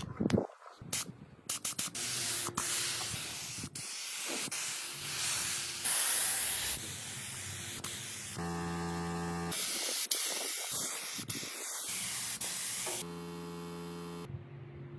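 Compressed air spraying in long hissing stretches, with sharp clicks in the first couple of seconds and a steady motor hum under the hiss in two stretches.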